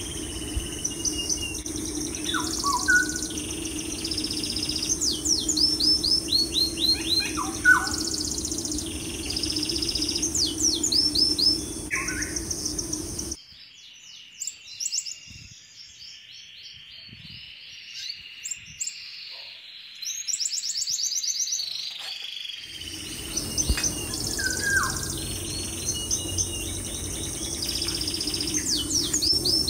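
Birds chirping: short repeated chirps and quick trilled calls every few seconds over a steady low hum. Roughly halfway through, the hum drops out for several seconds while the chirping goes on.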